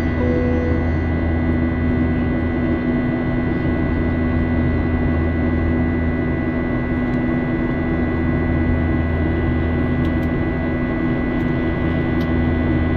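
Steady drone of a jet airliner's cabin in flight shortly after takeoff: a low hum with a few fixed tones, and a brief tone just after the start.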